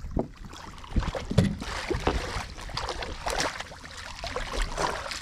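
A freshly landed trout thrashing in a kayak while being handled: irregular knocks and scrapes against the hull, with rustling and some splashing.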